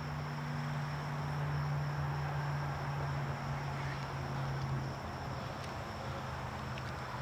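Steady outdoor drone of insects with a constant high thin tone, over a low steady hum that swells a little about a second in and eases back about five seconds in.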